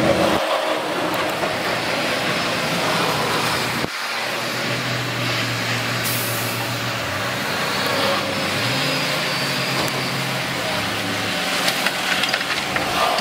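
Heavy diesel earthmoving machinery working, its engines running with the pitch rising and falling under load. There is a short hiss about six seconds in.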